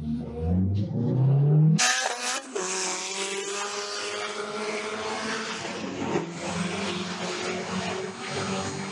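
1993 Toyota MR2's 2.2-litre four-cylinder engine revving hard as the car launches from a drag-strip start line, its pitch rising. About two seconds in, the car is heard from trackside at full throttle down the strip: a high, nearly steady engine note under a loud hiss that stops abruptly near the end.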